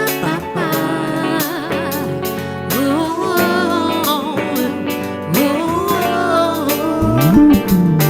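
Live band music led by guitar, with a melody line that slides and bends in pitch over sustained backing chords, getting louder near the end.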